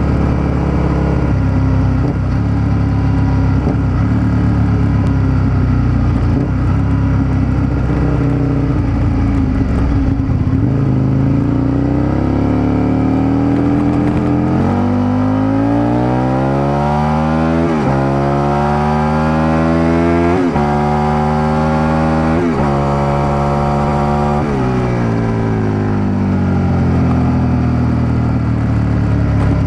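Aprilia RSV 1000's 998 cc V-twin engine, picked up from under the seat. It runs steadily for about ten seconds, then pulls hard with rising revs through three quick upshifts, each a sudden drop in pitch before climbing again, and near the end the revs fall away as the throttle is eased off.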